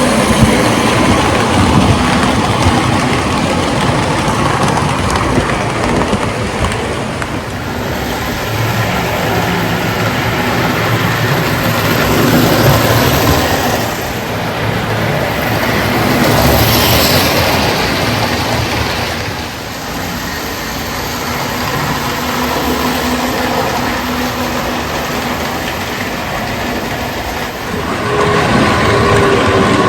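Toy electric train running on its track: a 4-6-2 Pacific steam locomotive with an AC motor pulling passenger cars.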